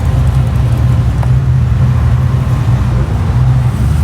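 Car engine running at a steady idle, a low even rumble.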